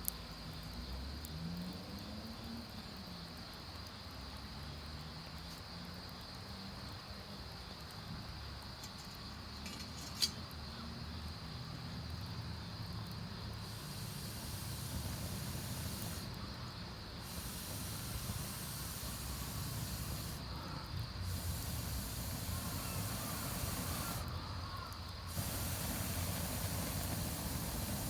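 Wood campfire burning with a steady hiss, and one sharp pop about ten seconds in.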